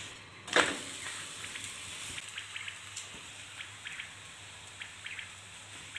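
Thin batter paratha frying in oil in a non-stick pan, turned over with a wooden spatula: one sharp scrape and slap about half a second in, then steady sizzling with small crackles.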